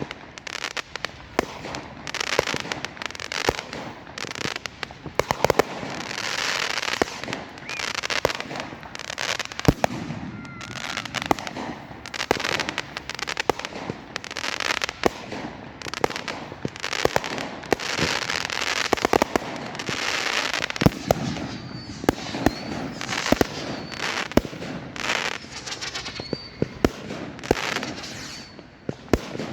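Fireworks going off continuously, with many sharp bangs over stretches of crackling and hissing, and a few faint short whistles near the end.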